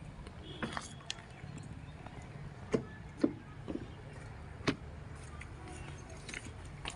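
A steady low rumble with a few scattered sharp knocks and clicks, about seven of them, the loudest a little under three seconds in, just after three seconds and near five seconds.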